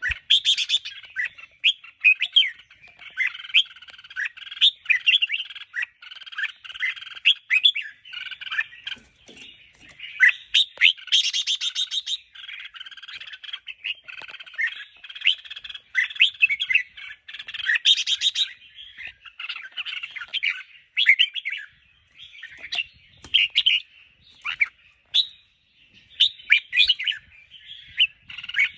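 Red-whiskered bulbul song: a dense, unbroken run of quick whistled notes and chattering calls. Two harsher rattling bursts come about 11 and 18 seconds in.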